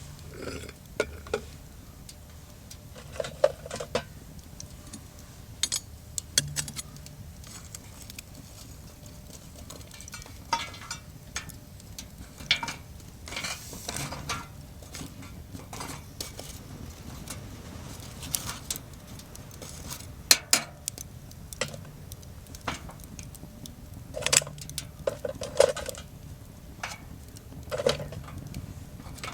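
Metal camp cookware and utensils being handled: irregular clinks, taps and knocks, a few of them ringing briefly.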